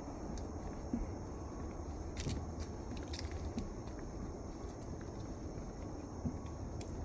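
Wetland ambience: a steady high insect drone over a low rumble, with scattered soft footsteps and a few sharp ticks.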